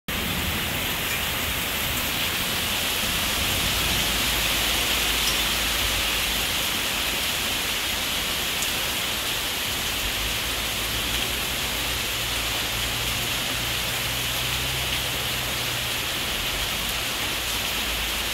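Heavy rain pouring steadily on trees and the ground, a dense even hiss.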